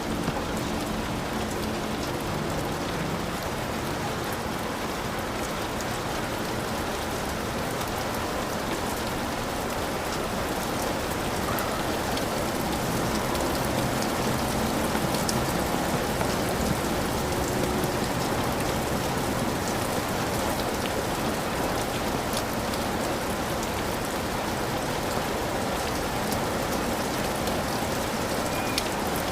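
Heavy rain falling steadily on a hut, a dense even hiss with individual drops ticking through it.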